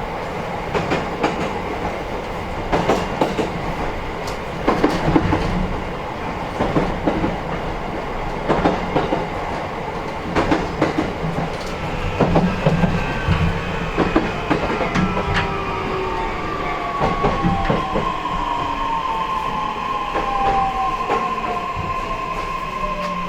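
E131 series electric train heard from inside a motor car, its wheels clicking over rail joints. From about halfway, the inverter and traction motor whine comes in as several tones falling in pitch together as the train slows.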